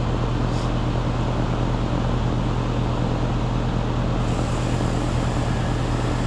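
Air-conditioning condenser unit running: a steady low compressor hum over the even rush of the condenser fan.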